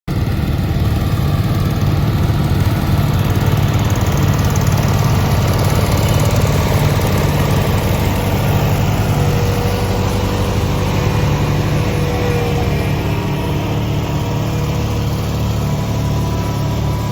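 Small garden-tractor engine running steadily at work.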